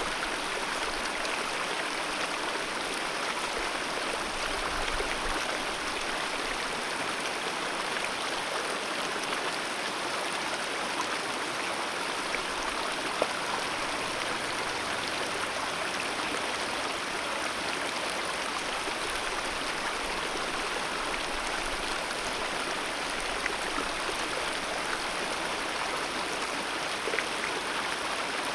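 Alpine mountain river rushing and splashing steadily over rocks, a continuous even roar of flowing water with faint splash ticks here and there.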